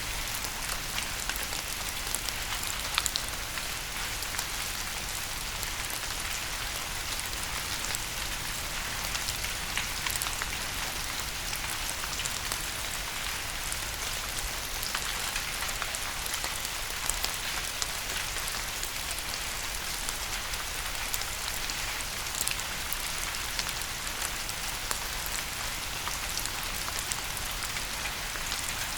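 Steady rain falling, an even hiss with many small sharp drop impacts scattered through it.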